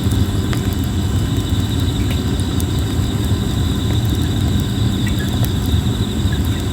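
Red plum wood burning in a campfire, crackling with scattered sharp pops over a steady low rumble. Insects trill steadily at a high pitch throughout.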